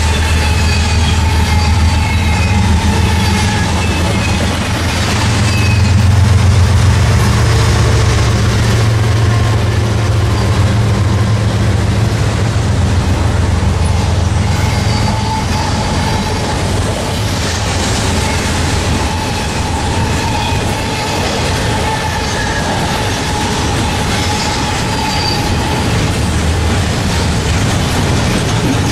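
Double-stack intermodal freight train rolling past close by: a steady rumble of steel wheels on the rails, loudest about six to ten seconds in, with faint high wheel squeals now and then.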